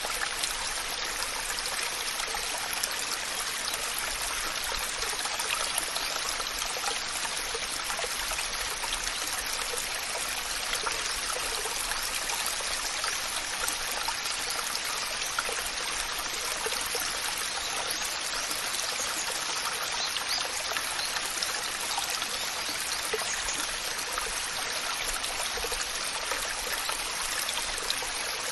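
Waterfall: water pouring and splashing in a steady, even rush, with small spatters through it.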